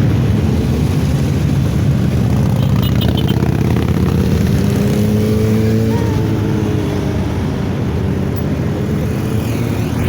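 Motorcycle engine running under way, with a rushing noise; its pitch climbs slowly and then drops about six seconds in.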